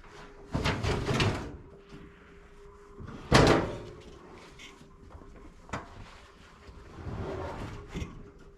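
Freshly milled wooden boards being handled: irregular knocks and scrapes of wood on wood, with the loudest knock about three seconds in.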